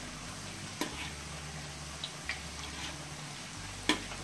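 Corn fritters frying in very hot oil in a wok: a steady sizzle with small pops as a spatula works the oil over them. Two sharp clicks cut through it, one about a second in and a louder one near the end.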